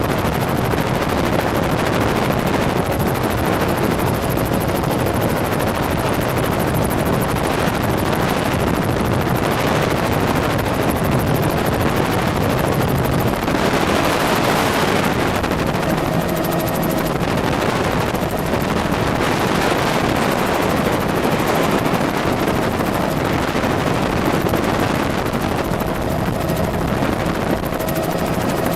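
Helicopter in flight: steady, loud rotor and engine noise with a fast, even rotor chop.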